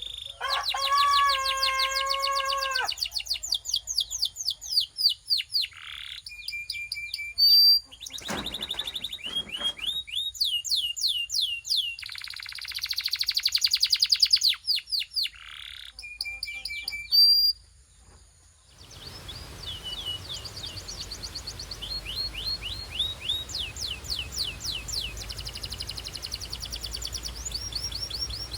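Belgian canary singing a long, varied song: fast trills of short repeated notes sweeping up and down, interrupted by brief pauses, with a lower, held note near the start. After a short silence about eighteen seconds in, the trills resume over a steady background hiss.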